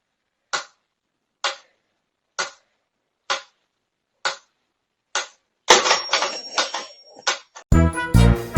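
Sharp single ticks about once a second, then a brief clatter of rapid clicks and rustling with a thin high tone, and music with a steady beat comes in near the end.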